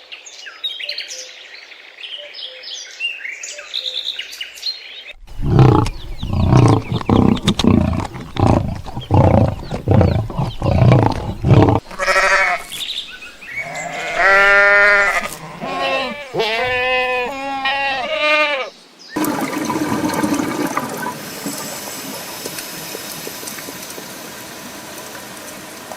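A sequence of different animal calls: high chirps in the first few seconds, then a string of short, loud, low calls, then long, wavering bleat-like calls, and a steady hissing stretch in the last several seconds.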